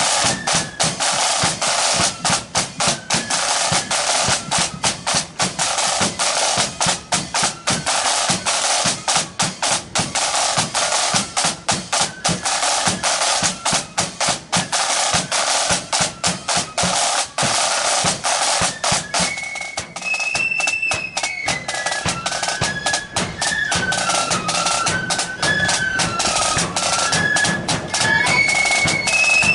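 Marching flute band playing: snare drums beat a fast cadence with rolls, and the flutes come in with a high melody about twenty seconds in.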